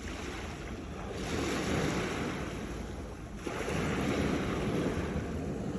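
Sea waves crashing against rocks: surf surges in twice, about a second in and again just past midway, over a steady low rumble.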